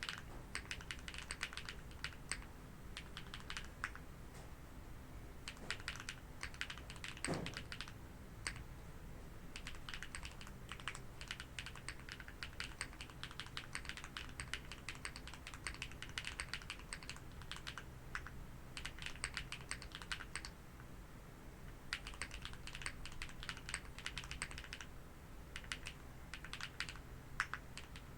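Typing on a TKD Cycle 8 custom mechanical keyboard, plateless PCB without foam, with HMX Green Apple switches and Keykobo keycaps: fast runs of keystrokes with a few short pauses.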